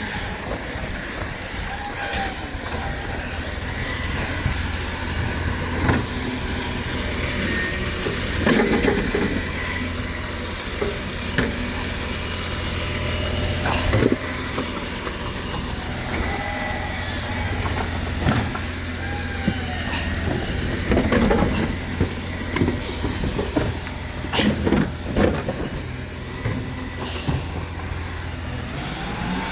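Refuse collection truck with a bin-lifting arm, its engine running steadily, with scattered clunks, a few short squeals and brief air hisses as it works.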